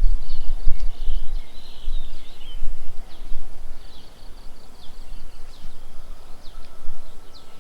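Several birds chirping and calling with short high chirps, some falling in pitch, over a low rumble of wind on the microphone.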